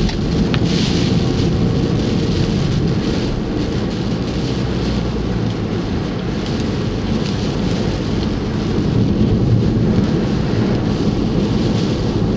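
Car driving in a heavy tropical-storm rain: a steady low road and engine rumble with the hiss of rain on the car.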